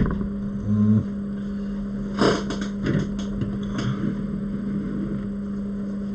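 A steady low electrical hum from bench equipment, with a few handling knocks and clicks. The loudest knock comes about two seconds in.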